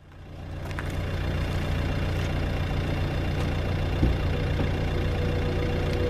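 A car engine idling steadily, fading in over the first second, with one short knock about four seconds in.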